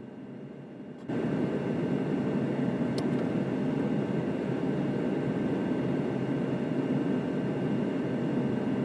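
Steady rush of air from a gas furnace's blower running, which cuts in abruptly and loudly about a second in, with a faint click a couple of seconds later.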